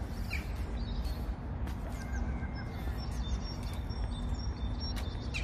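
Wild birds chirping here and there, short high calls, over a steady low outdoor rumble.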